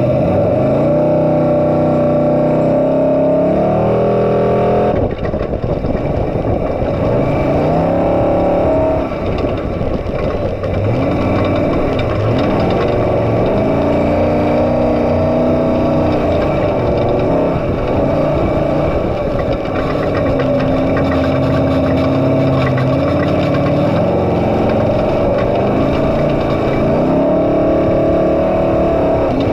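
Off-road race truck's engine running hard, its pitch repeatedly climbing and dropping as it revs up and shifts or lifts off.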